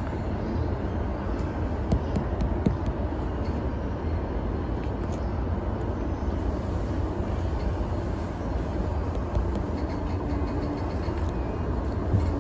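Keihin-Tohoku Line E233-series electric train heard from the driver's cab: a steady low running rumble as it slows along the platform and comes to a stop. A few sharp clicks about two seconds in, and a short steady tone near the end.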